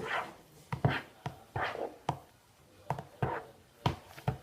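A utensil stirring shaving cream into glue slime in a bowl: a run of irregular knocks and scrapes against the bowl, a few each second.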